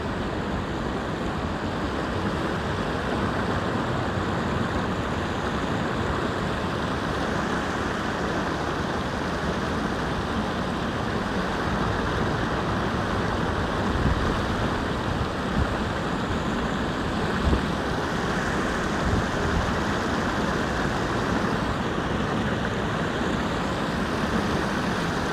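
Steady rushing noise with a few faint knocks, about a third and two thirds of the way through.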